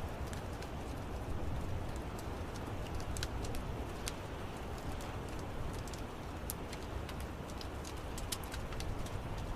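Wood fire in an outdoor fireplace crackling, with many sharp pops and snaps scattered irregularly over a steady low rush of burning.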